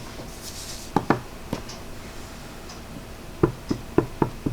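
Acrylic stamp block tapping against an ink pad as the stamp is inked: a few sharp taps about a second in, then a quicker run of five taps near the end.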